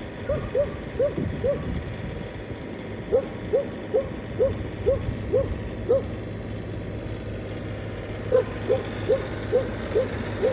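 Tractor engine running steadily, under three runs of short, rising hoot-like squeaks, about two to three a second, that stop and start twice.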